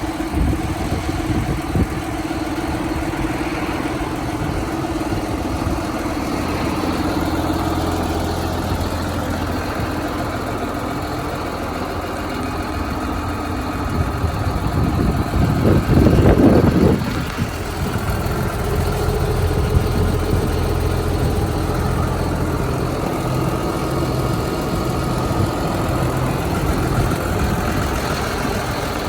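John Deere 7530 Premium tractor's six-cylinder diesel idling steadily. It swells louder for about two seconds just past the middle, then settles back to idle.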